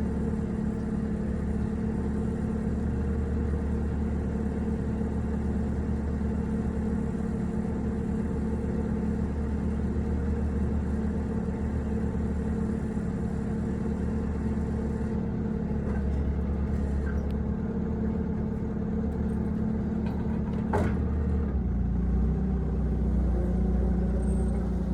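An engine idling steadily. There is a single sharp knock near the end, after which the engine note shifts lower and grows a little louder.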